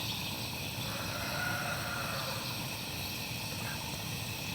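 Steady background hiss with a faint, even high-pitched insect drone.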